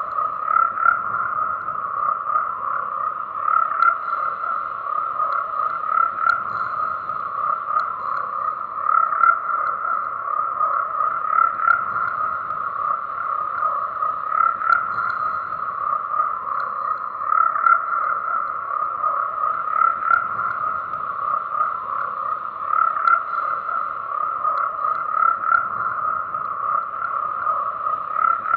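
A dense chorus of frogs croaking without a break, swelling in loudness about every three seconds.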